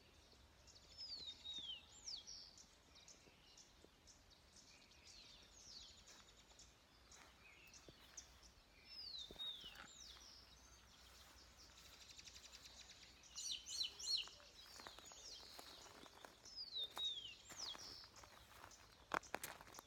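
Wild birds calling in the dawn quiet. A short phrase of high, falling whistled notes comes back about every four seconds, with a quick run of sharp chips once midway.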